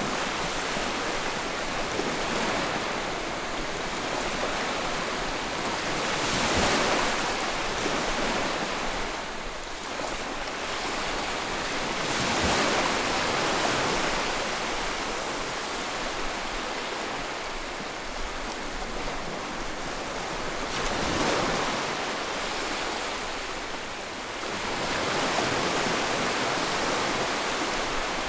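Sea waves breaking and washing on a shore, a steady rush of surf that swells as a wave breaks about every six seconds.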